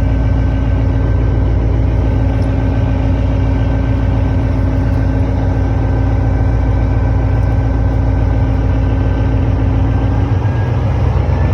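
Motorboat engine running steadily, a loud low hum heard from on board; the engine note shifts about ten seconds in.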